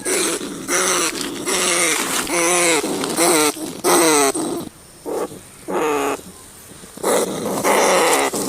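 Rats squealing: a rapid series of harsh, rasping squeals, each about half a second long and falling in pitch, with a short lull just past the middle.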